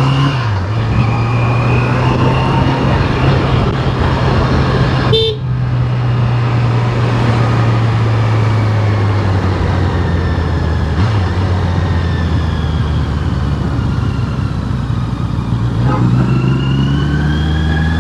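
Honda CBR650R's inline-four engine running steadily on the move, its pitch rising near the end. A short horn toot comes about five seconds in.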